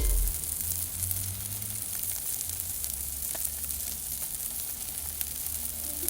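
Yakitori (skewered chicken) sizzling steadily as it grills over a small solo fire pit, with scattered faint crackles.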